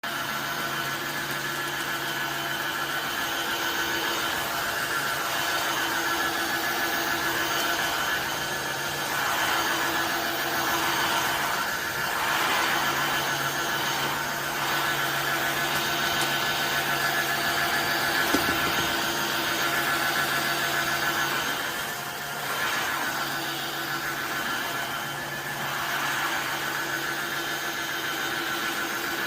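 Tineco iFloor 5 Steam wet-dry floor cleaner running: a steady motor hum with a higher whine, swelling and easing a little now and then.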